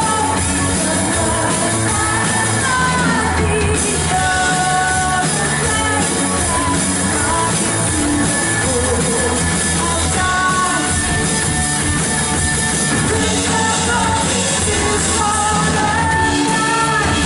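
Live worship band playing a rock-style song with singing voices over electric guitar and drums.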